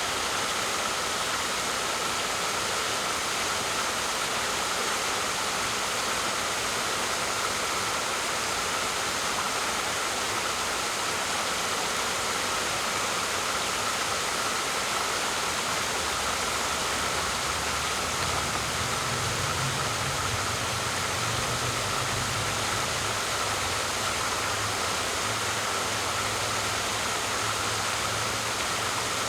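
Waterfall: a steady rush of falling water. A low hum joins the rush about halfway through and carries on.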